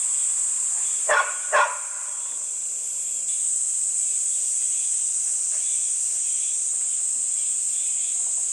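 A dog barks twice, about half a second apart, over steady high-pitched insect chirring.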